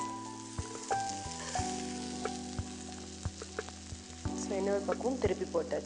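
Vadai shallow-frying in a little oil on a flat griddle, sizzling steadily, with sharp clicks of a spatula against the pan every half second or so.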